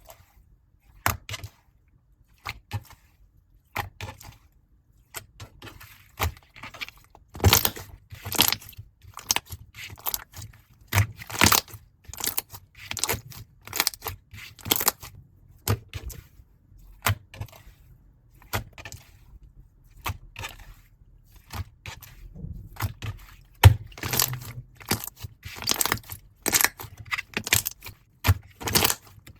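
Slime being squeezed and pressed by hand, giving irregular sticky clicks and crackling pops. They are sparse at first and come thicker and louder after several seconds.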